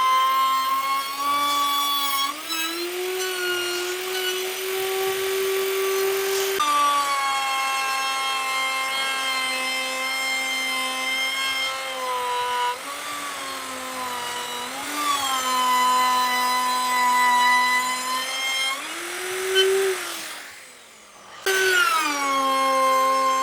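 Electric woodworking power tool running with a steady whine, its pitch rising and dipping as the load on it changes while it works wood. About twenty seconds in the sound falls away, and a second and a half later it comes back abruptly.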